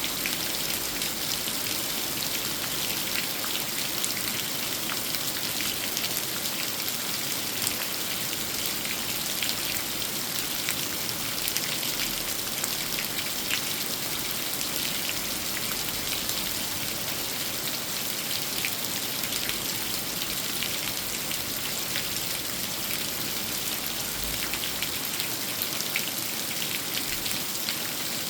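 Steady rain falling on an old tree: an even hiss dotted with many separate drops.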